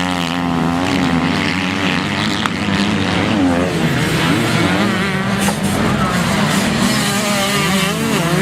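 Several motocross bikes racing, their engines revving up and down over and over as the riders work the throttle.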